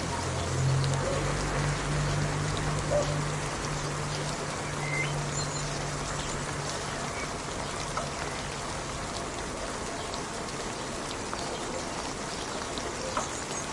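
Steady rain falling, an even dense hiss of many drops. A low steady hum sits under it in the first half and fades out about halfway through.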